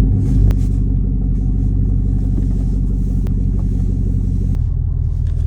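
Vehicle engine and road noise from a moving car or truck, a steady low drone whose engine note changes about four and a half seconds in.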